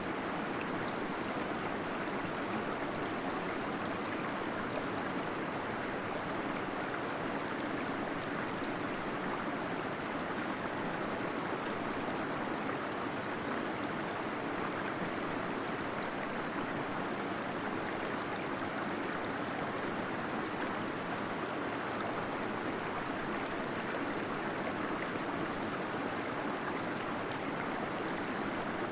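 Small waterfall splashing and gurgling steadily in a cave, a continuous even rush of water.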